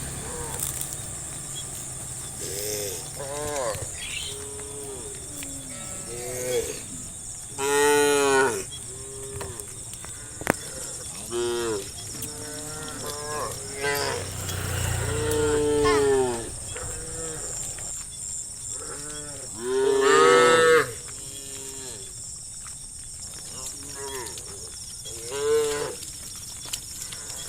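Cows mooing again and again, the calls at different pitches and some overlapping, with long loud moos about 8, 15 and 20 seconds in. A steady high hiss runs underneath.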